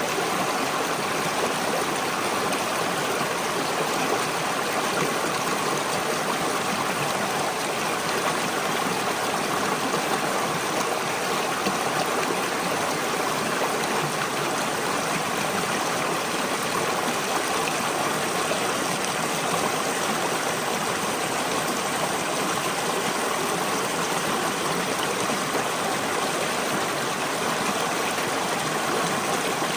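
A brook flowing steadily: an even, unbroken rush of running water.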